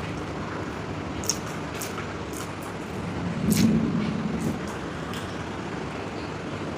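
Close-up chewing with several short, wet mouth smacks, over a steady background hum.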